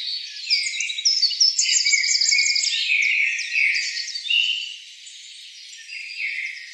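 Several small birds chirping and trilling over one another, with a fast run of repeated high notes about a second and a half in.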